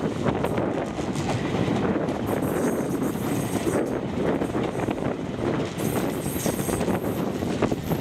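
Running noise of a passenger train heard from an open carriage window: a steady rumble of wheels on the rails with scattered short clicks, and wind on the microphone.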